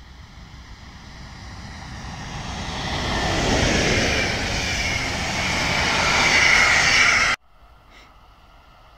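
Electric locomotive-hauled passenger train passing close by: the noise of its wheels running on the rails builds over a few seconds to a loud, steady roll as the coaches go past, then cuts off suddenly about seven seconds in.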